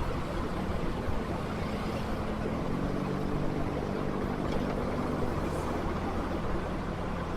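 Motorcycle riding in traffic: engine running under a steady rush of wind and road noise. From about two and a half seconds in to about six seconds a steadier engine note stands out above the noise.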